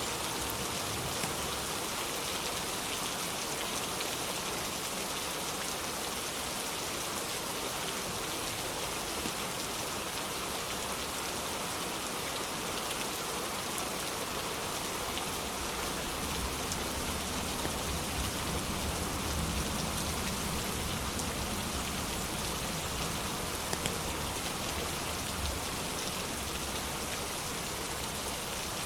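Steady rain falling in an even hiss of drops. Through the middle, a low rumble of distant thunder swells and fades under it.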